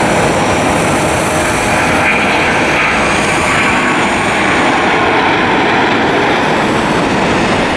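Jet airliner's engines running at takeoff power, a loud, steady rumble and roar with no break.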